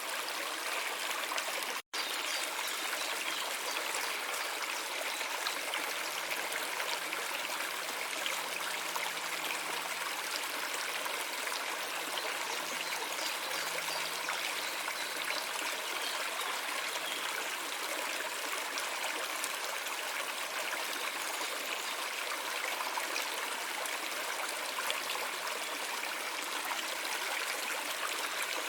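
Water of a small stream running and trickling in a steady, unbroken rush. It cuts out completely for an instant about two seconds in.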